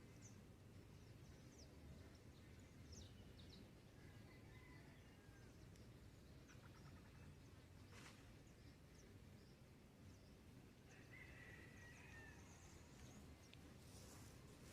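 Faint rural dawn ambience: scattered short bird chirps and calls over a low steady rumble, with one sharp click about eight seconds in.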